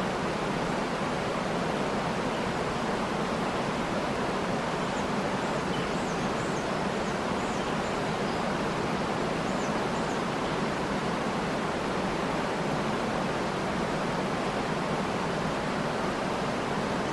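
Waterfall rushing in a steady, even roar of falling water, with faint high bird chirps here and there in the first half.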